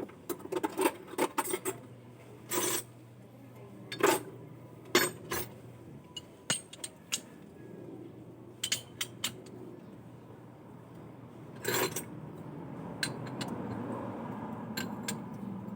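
Metal hand tools clinking and clanking as wrenches are handled and set down: a string of sharp metallic knocks at irregular intervals, over a faint low steady hum.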